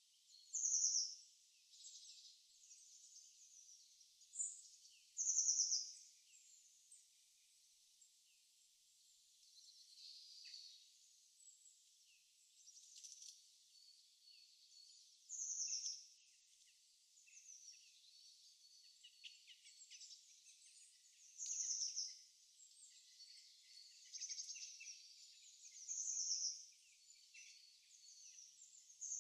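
Faint birdsong: a short, high, falling call repeating every five seconds or so, with fainter chirps and twitters between.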